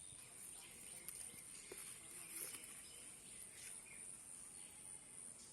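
Faint outdoor ambience: a steady high-pitched insect drone with a few faint bird chirps and a couple of soft clicks.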